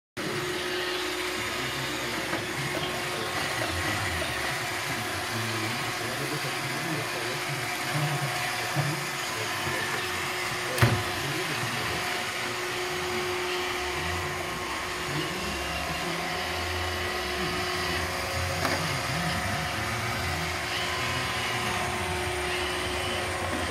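iRobot Roomba 650 robot vacuum running, its motor and brushes making a steady whirr with a constant hum. A sharp knock about eleven seconds in, with a few lighter knocks around it.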